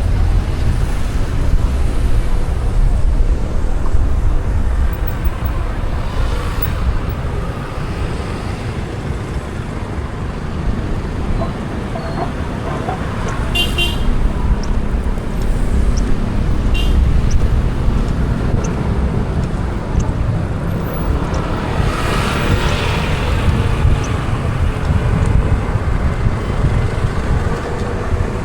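Road traffic noise from driving in a city at night: a steady low rumble of engine and tyres. Two brief, high horn toots come about fourteen and seventeen seconds in.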